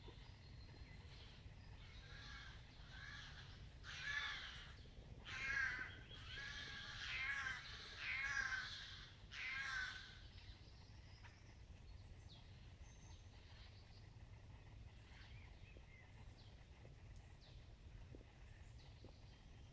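A bird in a spring woodland giving a run of loud, harsh calls, about five of them, in the first half. Faint, scattered bird chirps follow.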